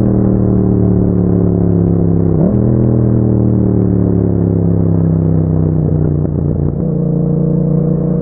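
Yamaha MT-07's parallel-twin engine running through an aftermarket Akrapovic exhaust, its revs falling steadily as the bike slows. About two and a half seconds in, a quick jump in pitch breaks the fall, typical of a downshift. The revs then fall again and settle to a lower, rougher note after about six seconds.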